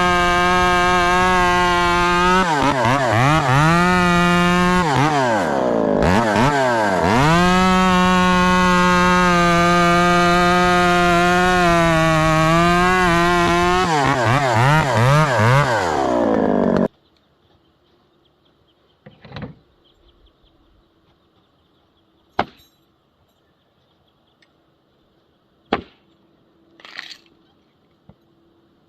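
Two-stroke chainsaw running at high speed, its pitch dropping and recovering several times, then shutting off suddenly about two-thirds of the way in. A few sharp knocks follow.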